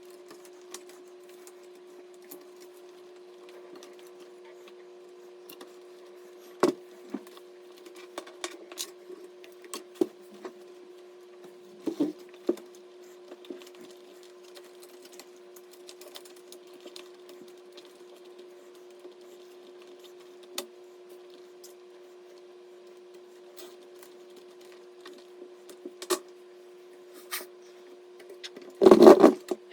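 Scattered clicks and taps of small objects being handled over a steady hum, with a short louder rattle of handling about a second before the end.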